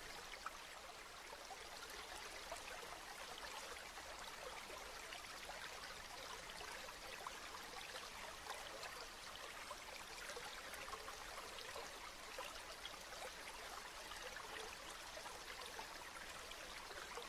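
Steady rain: an even, soft hiss of falling water with many small drop ticks.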